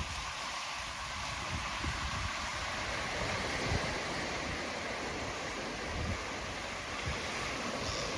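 Gentle ocean waves washing on a beach, a steady surf wash, with wind gusting over the microphone.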